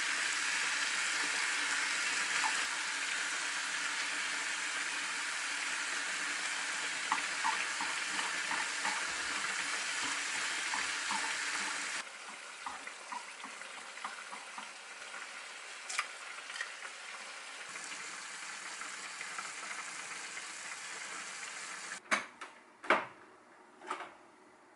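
Shredded cabbage and ham sizzling in a frying pan while being stirred with wooden chopsticks, with light ticks of the chopsticks against the pan. The sizzle drops suddenly about halfway, and a few sharp knocks follow near the end.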